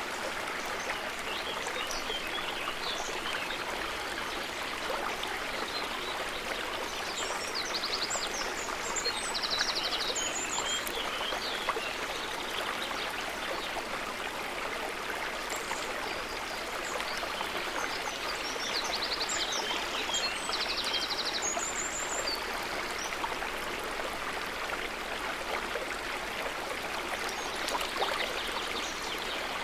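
Running river water flowing steadily, a continuous babbling rush. Short, high chirping calls come in twice, about a third and about two thirds of the way through.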